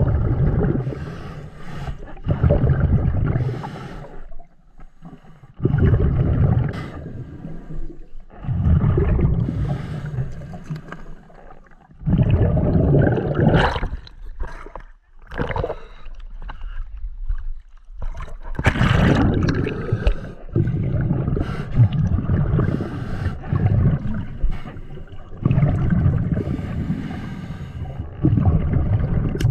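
Scuba diver breathing through a regulator underwater: bursts of exhaled bubbles gurgling every few seconds, with quieter gaps between them as the diver inhales.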